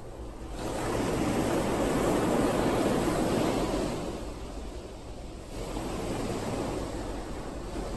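Ocean surf: a wave swells up about half a second in, peaks and washes out over the next few seconds, then a second, smaller wave rises past the middle and fades.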